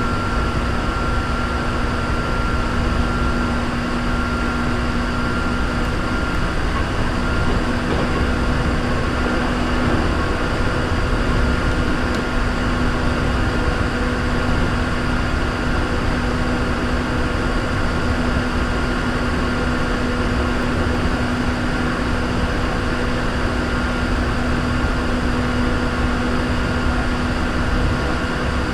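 Hankyu 3300 series electric train running between stations, heard from inside the car: a steady rumble of wheels on rail with a continuous low hum and a fainter high tone over it.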